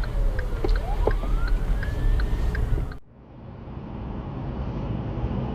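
Emergency vehicle siren wailing, sliding down in pitch and rising back up, with a quick ticking about four times a second. It cuts off suddenly about three seconds in, giving way to the steady low rumble of a vehicle driving.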